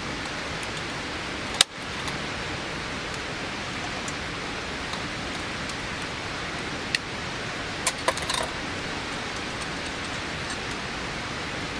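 Steady rushing water noise, from rain or running water. A sharp knock about a second and a half in, and a few small clicks and knocks around eight seconds in.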